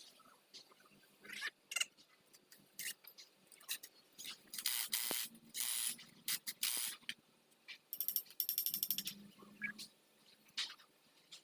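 Hand tools working on a forklift engine: scattered metal clicks and knocks, several short rasping strokes in the middle, then a quick run of ratchet-wrench clicking.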